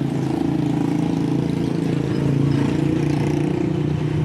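An engine running at a steady pace, a continuous low drone that swells slightly past the middle.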